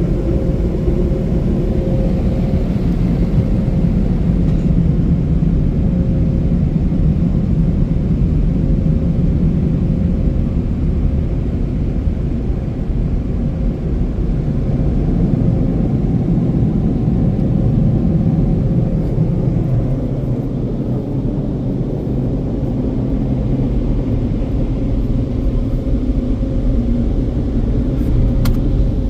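AutoVac car wash dryer blowers running, a loud steady rumble with a faint steady hum above it that shifts in character about two-thirds of the way through.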